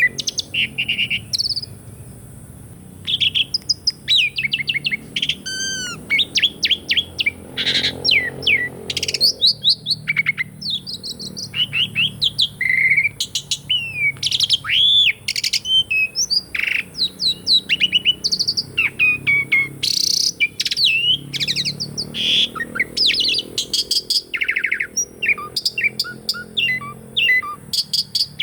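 Asian pied starling (jalak suren) singing a long, varied song of whistled notes, rising and falling glides and fast clicking rattles, with a short pause about two seconds in.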